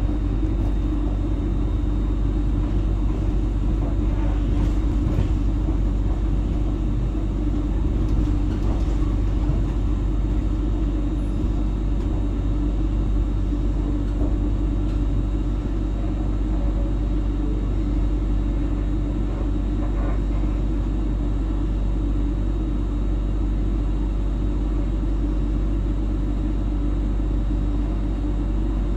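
Steady low rumble inside an electric passenger train as it runs slowly into a station, with wheels on rails and a few faint clicks as it crosses pointwork.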